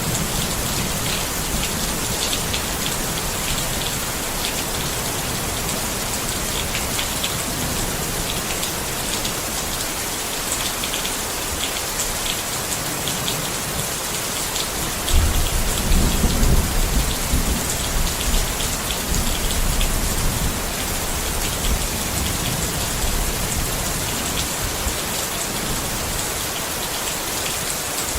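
Steady rain falling on a tent, with scattered individual drops tapping through the hiss. About halfway through, a low rumble of thunder rolls in and fades over several seconds.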